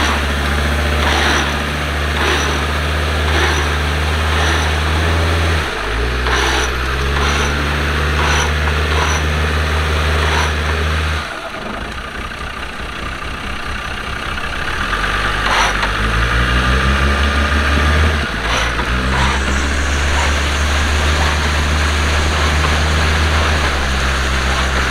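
Land Rover Defender engine running at a steady speed, with a brief dip about six seconds in; partway through it drops lower and unsteady, then climbs back up to a steady run. A faint tick repeats about once a second in the first half.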